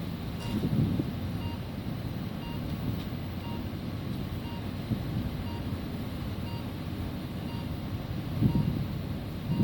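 Lorry engine running with wind on the microphone, while a vehicle warning beeper sounds short, evenly spaced beeps.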